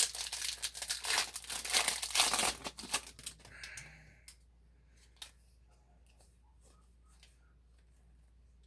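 A Yu-Gi-Oh booster pack's foil wrapper being torn open and crinkled for about three and a half seconds, then a few faint clicks.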